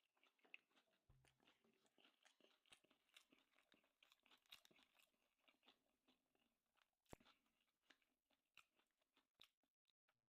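Faint, close mouth sounds of a person chewing a sushi roll: scattered soft crunches and wet clicks, busiest in the first half, with a sharper crunch about 7 seconds in.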